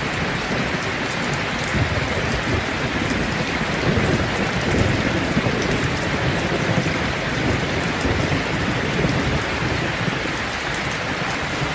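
Steady rain falling, an even hiss with a low rumble of thunder running underneath.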